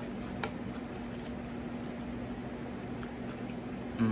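Chewing a mouthful of crispy fried chicken, with faint scattered wet clicks, over a steady low hum. A brief louder low sound comes at the very end.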